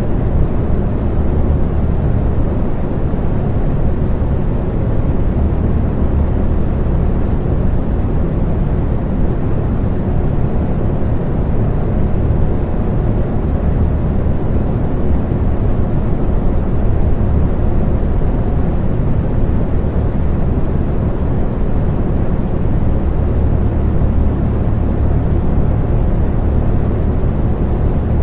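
Electric fan running steadily: a constant low-pitched whoosh of moving air with a deep hum, and little high-frequency hiss.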